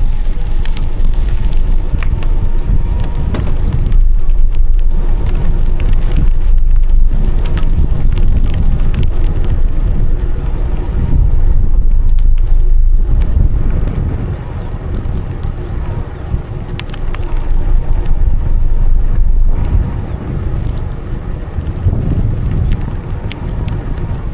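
Bicycle being ridden, its frame and parts rattling, with wind rumbling heavily on the microphone. Small clicks and knocks run all through; the rumble eases a little about fourteen seconds in.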